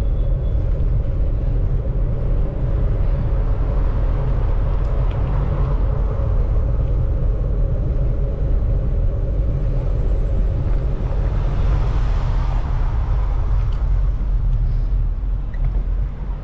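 Steady low rumble of wind on the microphone while riding a bicycle through city streets, with road traffic that swells twice as vehicles pass.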